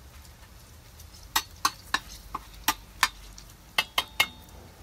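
A metal cooking utensil knocking and scraping in a 304 stainless steel pan: about nine sharp, irregular clinks over three seconds, starting about a second in.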